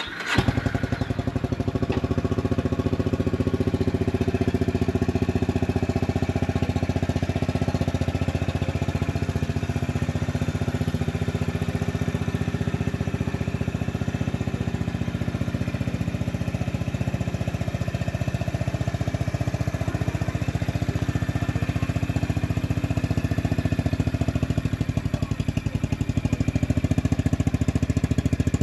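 Honda GB350S's air-cooled single-cylinder engine catching right at the start and then idling steadily, its even thumping beat holding level and growing slightly louder near the end.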